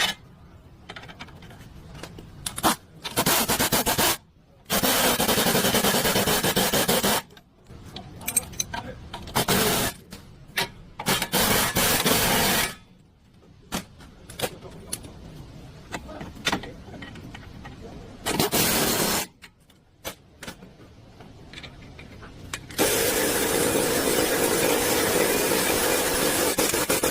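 Tool work on a car: repeated bursts of steady hissing noise lasting from about half a second to four seconds, the longest near the end, with clicks and scrapes of metal parts in between.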